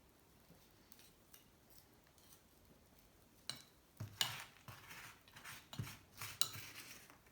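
A metal tool scraping and clinking against the aluminium engine case as sludge is dug out of it. It is quiet at first, then comes a handful of sharp clinks and short scrapes in the second half.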